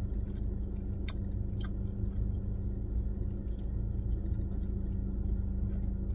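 A person chewing food with the mouth closed over the steady low hum of an idling car. There are two light clicks about a second in.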